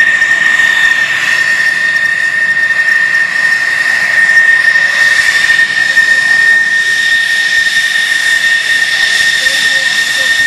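F-16's jet engine running steadily: a loud, high whine held at one pitch over a rushing hiss.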